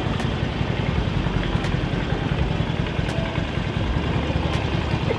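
A large engine idling: a steady low, pulsing rumble, with faint ticks repeating about every second and a half.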